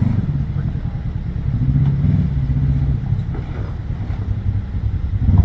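Jeep engine running at low speed while rock-crawling: a steady low rumble that rises a little in pitch for about a second midway.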